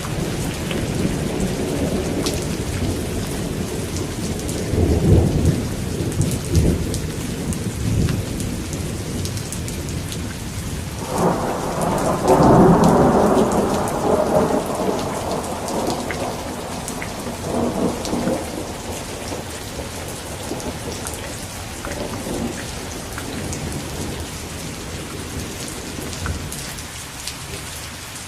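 Thunderstorm: steady rain with thunder rolling through it. A louder peal breaks in about a third of the way through and rumbles on for several seconds before fading back under the rain.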